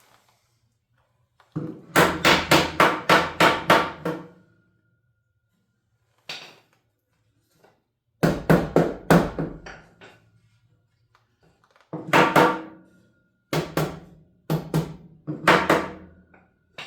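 Hammer blows on wooden wall framing, coming in quick runs of about four strikes a second, with a faint ring after some runs: a stud being knocked into place or nailed.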